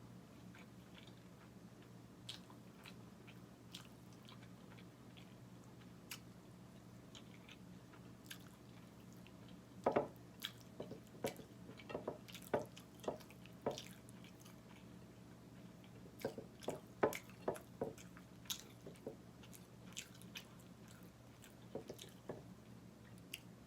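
Close-up chewing and wet mouth sounds of someone eating, soft squishy chews with clusters of louder smacks and clicks about ten seconds in and again a few seconds later. A faint steady hum lies underneath.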